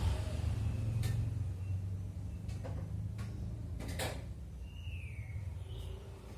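Orange-headed thrush giving a single short down-slurred whistle a little past halfway, among several sharp clicks, over a steady low rumble.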